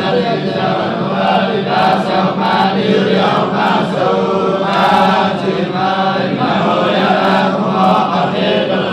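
Melodic chanted Quran recitation in a continuous, rising and falling voice, with no pause between phrases.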